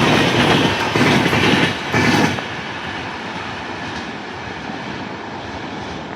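Train passing close by, its wheels clattering over the rail joints in surges about once a second, then dropping suddenly about two seconds in to a quieter, steady rolling rumble.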